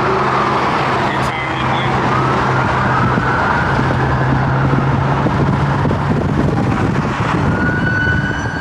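Car driving, heard from inside the cabin with a steady low engine drone, while a police siren wails behind it, slowly rising and falling and becoming clearer near the end.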